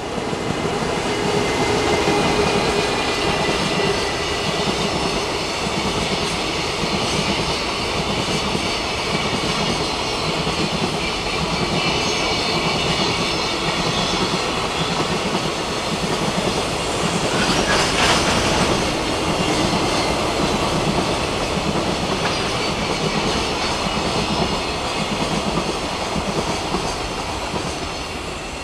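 JR Freight container train, hauled by an EH500 electric locomotive, passing: a steady rumble and rhythmic clickety-clack of the container wagons' wheels on the rails. About two-thirds of the way through there is a brief louder surge.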